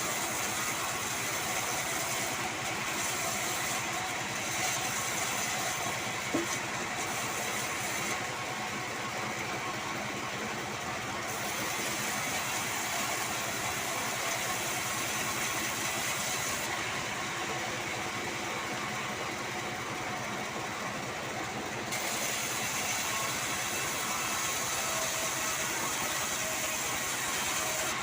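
Band sawmill running steadily while sawing sengon (albizia) wood. The high hiss thins out twice for a few seconds, and there is a single sharp click about six seconds in.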